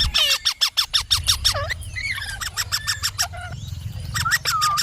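Indian ringneck parrot calling in quick runs of short, sharp chirps, some notes sliding up and down in pitch. There is a short break about three and a half seconds in, then a few more calls near the end.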